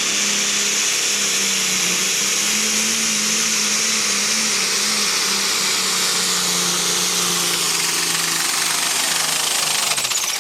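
Turbocharged super stock pulling tractor engine running flat out under load with a high turbo whistle, its pitch sagging slowly as the sled drags harder. Near the end the whistle drops sharply and the engine falls off as the run ends. The announcers say it got under the turbo, bogging just below boost.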